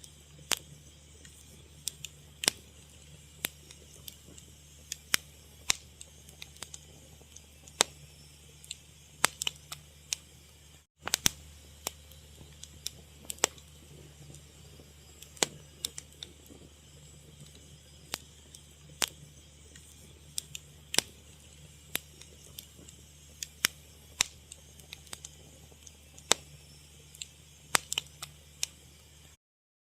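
Fire crackling, with irregular sharp pops over a low steady hum. The sound cuts out for an instant twice.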